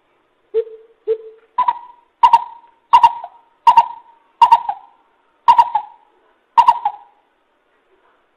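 Coucal hooting: a series of short hoots, the first two low, then seven higher hoots in a steady run, stopping near the end.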